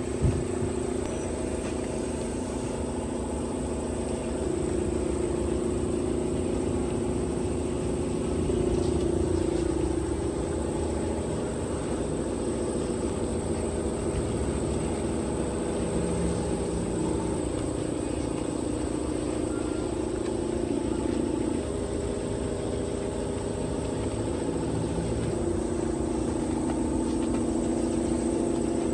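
Steady machine drone with a constant high whine above it; its lower hum shifts in pitch in steps every few seconds.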